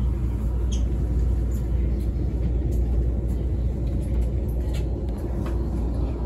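Steady low rumble and hum inside an electric commuter train's driver's cab, with a few faint clicks.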